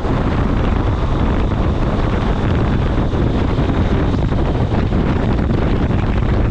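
Wind buffeting the microphone: a loud, steady rumbling noise that flickers in the low end.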